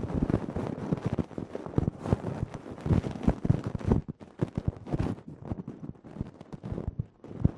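Close-miked ear-cleaning ASMR: an ear pick scratching and rubbing, heard as a rapid, irregular crackle with a short lull about four seconds in.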